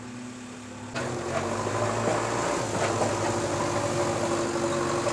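Diesel engine of heavy machinery running steadily, growing suddenly louder about a second in and holding there.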